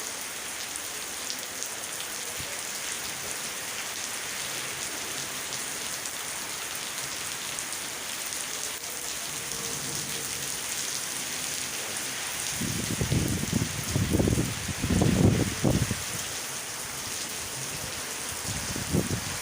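Heavy rain falling steadily. Loud low rumbles come in from about two-thirds of the way through and again near the end.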